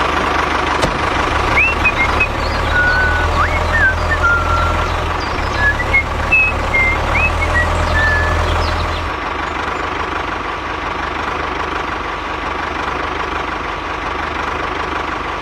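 A small engine running steadily, with a low rumble and a steady whine. Short high chirps sound several times in the first half, and the running settles slightly quieter after about nine seconds.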